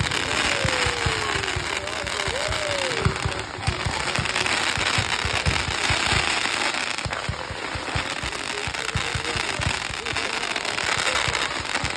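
A consumer fireworks display going off: a rapid, continuous run of booms with dense crackling over them.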